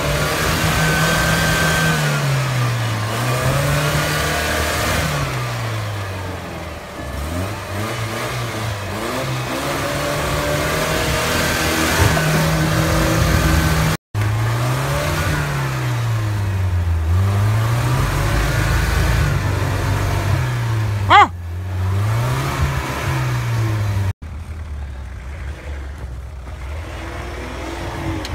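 Off-road UAZ-469 engine revved up and down over and over, every two to three seconds, as the 4x4 works to climb out of a snowy, muddy rut. Near the end the sound drops to a quieter engine. A brief, sharp, loudest sound comes about two-thirds of the way through.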